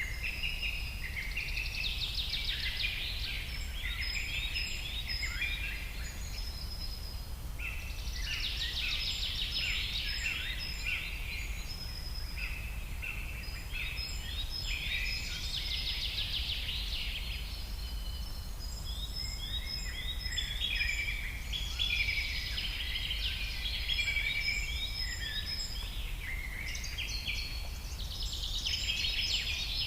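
Songbirds singing, several chirping and trilled phrases of a few seconds each, one after another, over a steady low background rumble.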